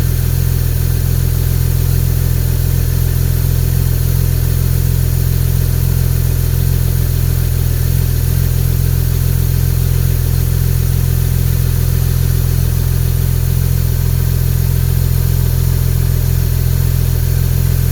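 Porsche 997 911 Turbo 3.8-litre twin-turbo flat-six engine idling steadily.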